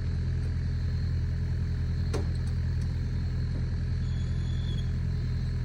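Excavator's diesel engine running steadily, a low even hum.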